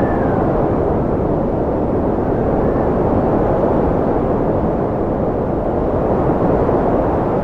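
Wind blowing steadily as a deep, even rushing noise, with a faint high whistle briefly at the start and again about three seconds in.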